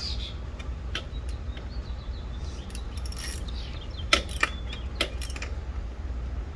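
Scattered metallic clicks and clinks of a hand wrench on a coil-pack bolt as it is tightened down, the sharpest a quick pair about four seconds in, over a steady low rumble.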